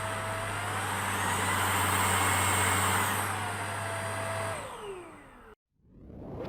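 LEVOIT VortexIQ 40 cordless stick vacuum's motor running with a steady whine. About a second in it speeds up to a higher pitch and holds. It is then switched off and winds down, the whine falling in pitch until it stops.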